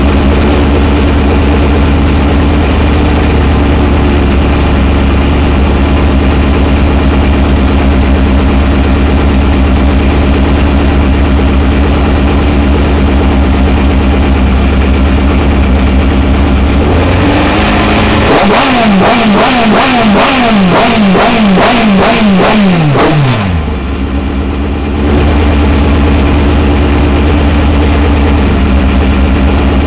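Racing car's engine idling at the start, heard from onboard. A little past halfway the throttle is blipped in a quick series of rising revs, about two a second, for several seconds; the pitch then falls away sharply and the engine settles back to idle.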